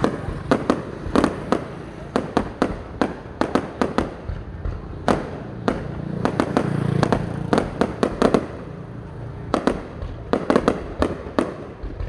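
Fireworks going off: a rapid, irregular series of sharp bangs and cracks, often several a second, with a brief thinning near the middle under a low rumble before the bangs pick up again.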